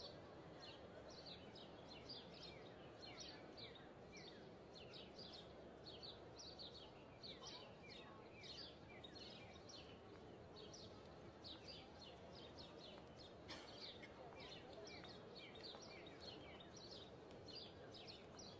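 Small birds chirping continuously, many short falling chirps a second, over a faint steady background hiss.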